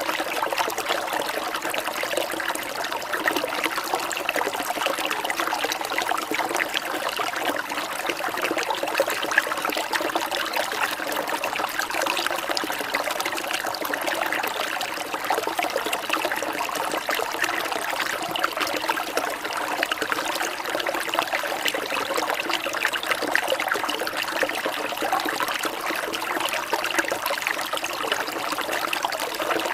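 Steady rain falling with trickling water, a dense even run of small drops that holds level throughout.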